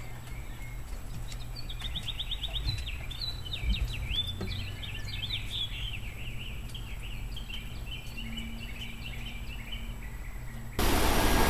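A songbird singing a long run of quick, varied chirps and trills. A loud rushing noise cuts in abruptly near the end.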